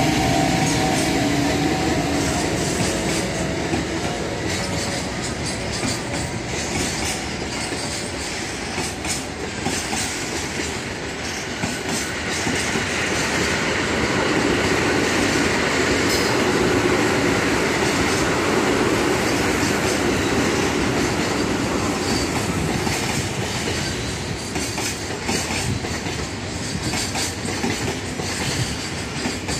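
A freight train running past in a long, steady rumble, its wagon wheels clacking over the rail joints.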